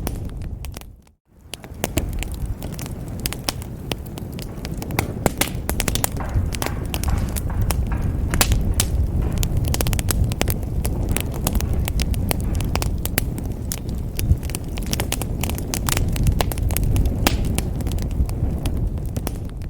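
Wood fire in a fireplace crackling: many small irregular pops and snaps over a low rumble of burning. The sound fades out briefly about a second in, then comes back.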